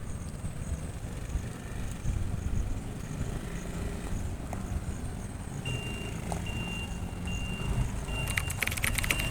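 Steady low vehicle rumble. About two-thirds of the way in, a high electronic beep starts repeating in even on-off pulses, like a vehicle's reversing or warning beeper.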